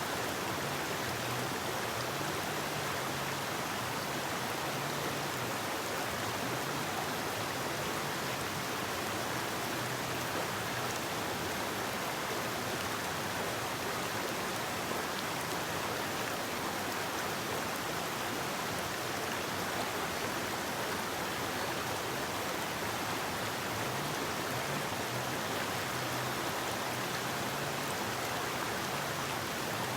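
Forest river flowing with a steady, even rush of water.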